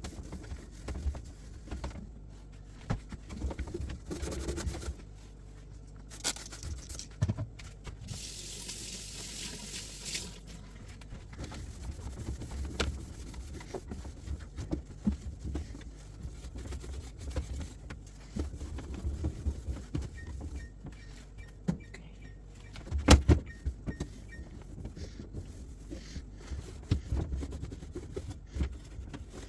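Refrigerator door-open alarm sounding a series of short, evenly spaced high beeps, once right at the start and again about two-thirds of the way through: the door has been held open too long. Around the beeps come the knocks and clatter of items being handled, a hiss of about two seconds early on, and one loud knock just before the second set of beeps ends.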